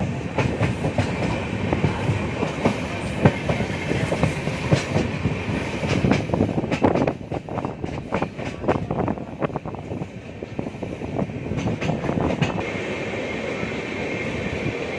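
Passenger train running on the rails, its wheels clattering over rail joints and points, with a dense run of sharp clicks through the middle.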